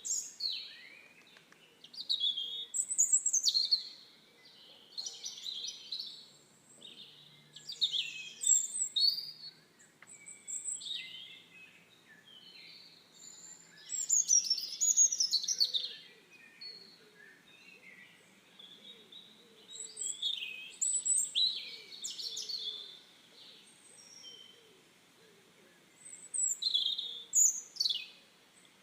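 Birds singing: bursts of high, quick chirping and trilling notes every few seconds, with quieter gaps between.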